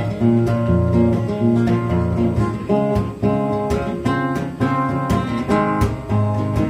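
Acoustic guitar playing a song's instrumental intro: regular plucked and strummed chords over a strong bass line.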